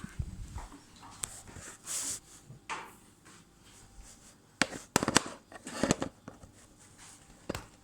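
Handling noise from connecting a power cord and plug: scattered clicks and knocks, with a cluster of sharp clicks about five seconds in.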